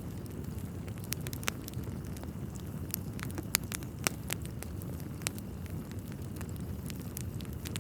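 Wood fire crackling in a fireplace: irregular sharp pops and snaps over a steady low rumble of burning logs, with the strongest pops a little past the middle.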